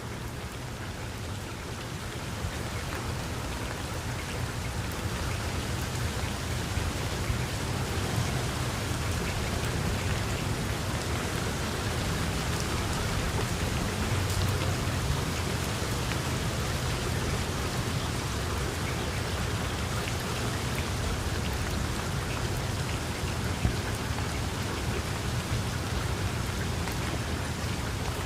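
Steady rain pouring down in a dense, even hiss of drops on surfaces, growing a little louder over the first few seconds, with a low rumble underneath that swells about halfway through.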